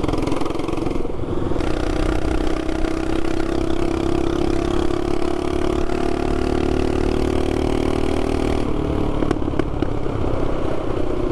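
224cc single-cylinder mini bike engine with a short straight-pipe exhaust and aftermarket carb, running hard at a steady high note while riding; the note creeps slightly upward, then shifts abruptly about three quarters of the way through, over a rough low rumble.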